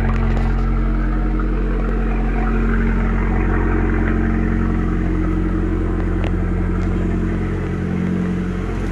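Abarth 595C's turbocharged 1.4-litre four-cylinder engine running under way through its Record Monza sports exhaust, a steady drone with a brief dip in level about eight seconds in.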